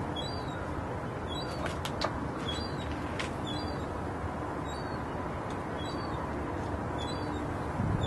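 A bird's short, high chirping call repeated about once a second, faint over a steady background rush.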